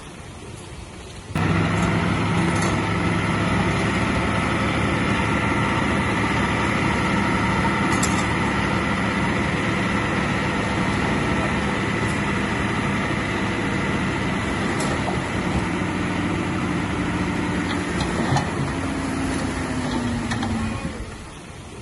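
Heavy diesel engine of earthmoving machinery running steadily, with a steady high whine over it. It cuts in abruptly about a second in and falls away near the end.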